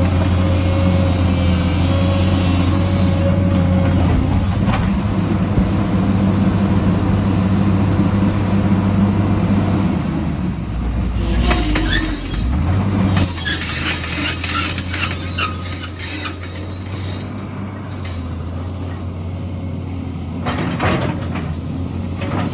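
Heavy excavator's diesel engine running steadily. Its note drops and shifts about halfway through. Sharp metallic clanks and scraping follow in the middle and again near the end.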